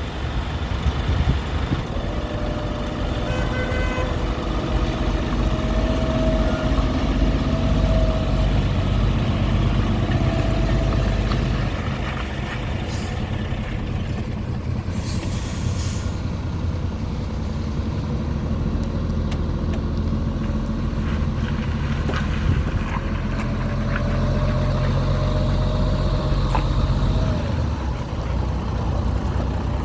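ERF E10 tractor unit's diesel engine running steadily, with a short burst of air hiss about 15 seconds in.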